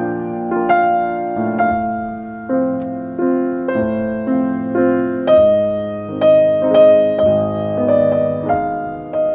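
Soft piano music: chords and single notes struck about every half second to a second, each ringing and fading.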